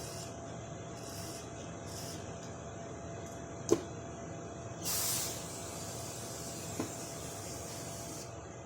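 Short bursts of spray blown through a carburetor's jets to clear out old gummed-up gas, the longest about five seconds in. A sharp click, the loudest sound, comes just before it, and a smaller click later.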